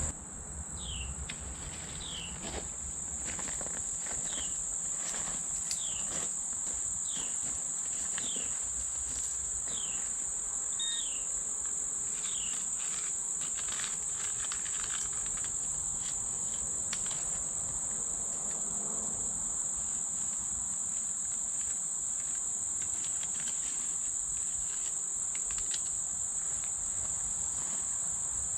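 Steady high-pitched trilling of insects, a chorus of crickets or similar. Over the first dozen seconds a short falling call repeats about once a second.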